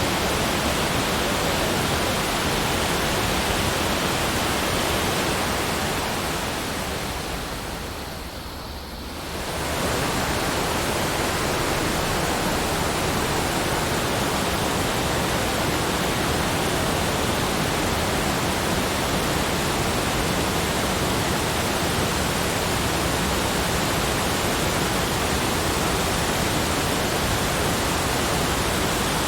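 Steady, even rushing of water, like a waterfall. It fades gradually a few seconds in, then comes back at full level abruptly about ten seconds in, as at a loop seam.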